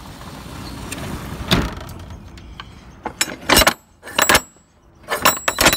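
Loose metal clanking and rattling in several short bursts, like scrap metal being shifted or stepped on, after a steady noisy rumble.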